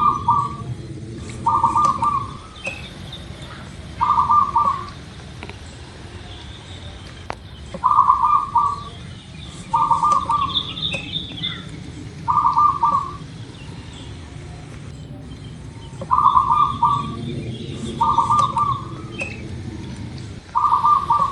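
Zebra dove (local perkutut) cooing: short, rapid rolling coos in sets of three, each set repeating about every eight seconds, with fainter chirps of other small birds above them.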